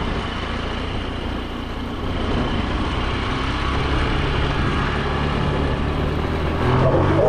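Motor scooter engine running while riding, a steady low drone under broad road and wind noise, getting louder about two seconds in.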